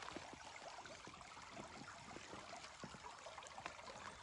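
Faint, steady trickle of a shallow creek, with many small watery plinks.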